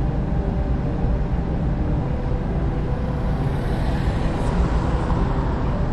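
Steady low rumble of vehicle traffic noise, with a slight rise in hiss about four seconds in.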